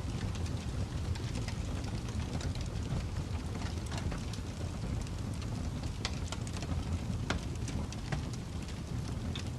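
Fireplace fire crackling: a steady low rumble of burning with irregular sharp pops and snaps.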